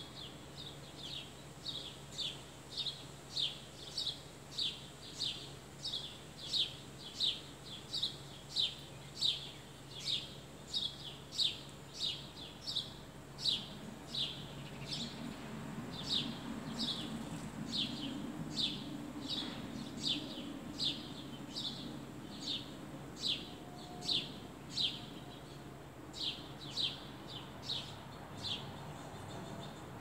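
A bird chirping the same short, downward-slurred note over and over, a little under two a second, with a short pause about halfway.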